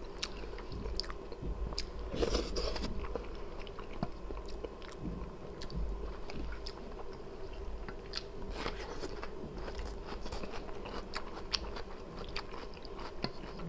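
Close-miked chewing and eating sounds: wet mouth noises with many short sharp clicks and smacks scattered through.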